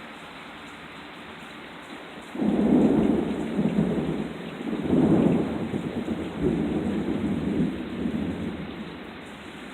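Steady rain, then about two seconds in a sudden loud thunderclap that rolls on for several seconds, swells again about halfway and fades away near the end.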